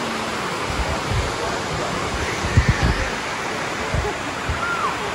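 Cascading water of Dunn's River Falls rushing over the rocks, a steady loud wash of noise. A few short low thumps break through it, the strongest just under three seconds in.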